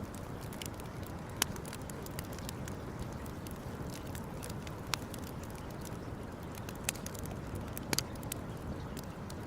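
Campfire burning: light crackling with a few sharp pops, about four standing out, over a steady low rush.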